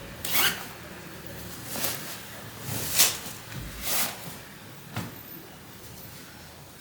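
A series of short household knocks and swishes, about one a second, from things being handled during cleaning.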